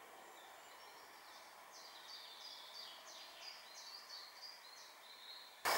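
A songbird singing a run of short, quickly repeated high notes that fall in pitch, starting about two seconds in and lasting some three seconds, over a faint steady hiss. Right at the end a loud steady rushing noise cuts in abruptly.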